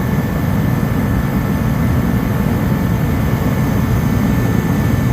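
Dyna-Glo KFA80H forced-air heater running steadily, its fan and burner flame giving a loud, even rush with a faint steady high whine.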